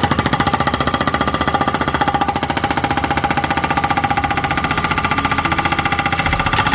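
Excavator hydraulic breaker hammering on a rock: a rapid, steady rattle of blows.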